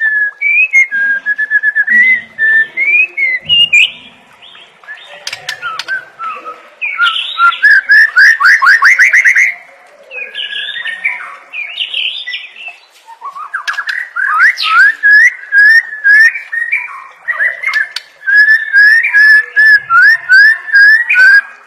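White-rumped shama (murai batu) singing a run of varied whistled phrases: fast series of rising notes and repeated sharp chips, with short pauses between phrases about 4, 10 and 13 seconds in.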